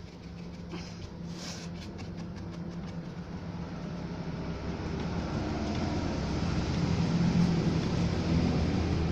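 A steady low mechanical hum that grows gradually louder, with a few light clicks about a second and a half in.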